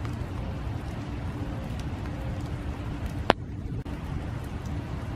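Steady rain falling, with one sharp tick about three seconds in.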